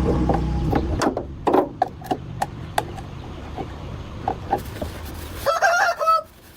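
A low hum in the first second, then scattered clicks and knocks, and a short bird call, of the kind a chicken makes, about five and a half seconds in.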